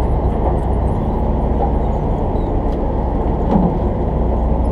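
Party fishing boat's engine running steadily with a low, even hum, with a faint click about three and a half seconds in.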